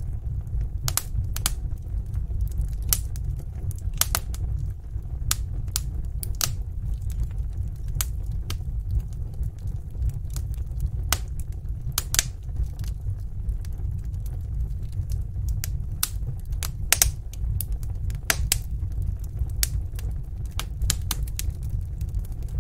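Wood fire burning in a fireplace: a low steady rumble of the flames with sharp, irregular crackles and pops from the burning logs, a few each second.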